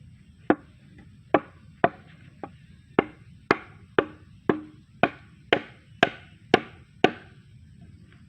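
A hand tool striking again and again: about a dozen sharp blows, roughly two a second, some with a short ring after them.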